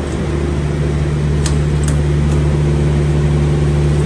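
Truck diesel engine running steadily, a deep even drone, with two short clicks about a second and a half and two seconds in.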